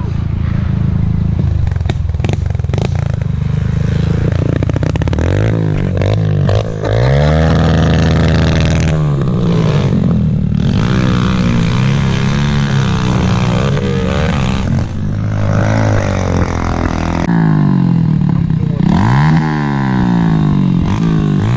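Small four-stroke pit bike engines being ridden hard on a dirt track, revving up and dropping off again and again as the riders throttle and shift. At times two engines are heard at once, their pitches crossing.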